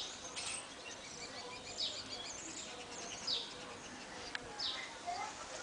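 Small birds chirping: a string of short, high chirps, each falling quickly in pitch, about one every second, over a faint steady background hiss.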